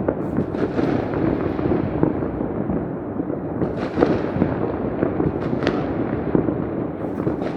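New Year's Eve fireworks, many displays going off at once: a dense, continuous rattle of bangs and crackles, with a sharper bang about four seconds in.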